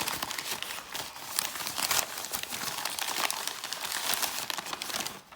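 Packaging bag crinkling and rustling as it is handled and opened, a dense run of irregular crackles that dies away just before the end.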